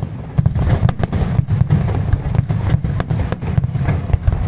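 Fireworks display: a rapid, irregular series of sharp bangs and crackles over a continuous low rumble of booming shells.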